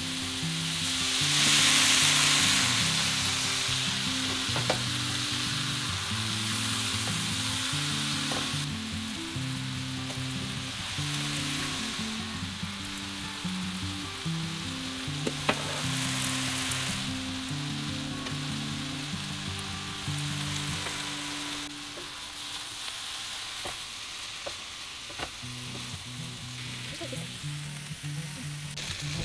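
Noodles stir-frying in a hot nonstick pan: a steady sizzle that flares up loudly for a couple of seconds near the start as soy sauce is poured in, with a few sharp clicks along the way.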